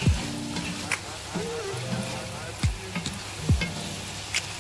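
Egg, sardine and mushroom mixture sizzling in a non-stick frying pan as a spatula stirs it. Background music with a deep, recurring beat plays over it.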